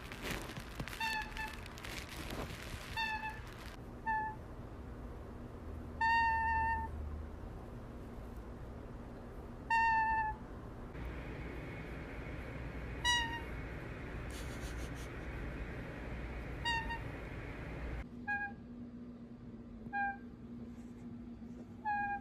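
An animal's short, high-pitched calls, repeated every one to four seconds, each under a second long, over a steady low background hum.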